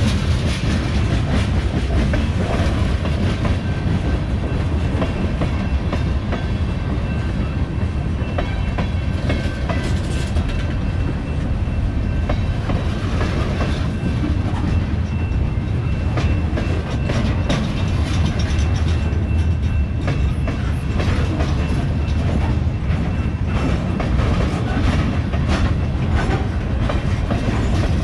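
Freight train cars rolling past: a steady, loud rumble with a constant clickety-clack of steel wheels over the rails.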